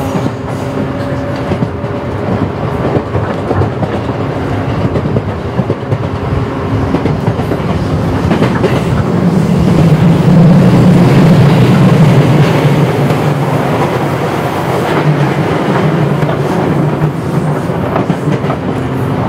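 Running sound inside a JR 117 series (100 subseries) electric train car: the wheels on the rails and the traction motors under way in a continuous rumble. It grows to its loudest about halfway through, then eases a little.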